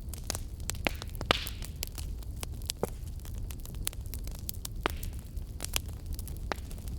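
Wood fire in a fireplace crackling, with frequent sharp pops over a low steady rumble. A louder pop comes about a second in, followed by a brief hiss, and another short hiss comes near the end.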